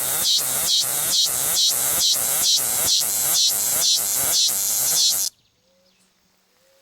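Cicada calling loudly: a harsh buzz pulsing evenly about two and a half times a second, which cuts off suddenly about five seconds in.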